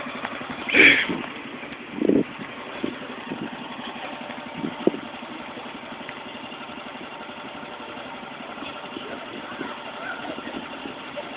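A vehicle engine idling steadily, with a few short louder noises over it in the first five seconds.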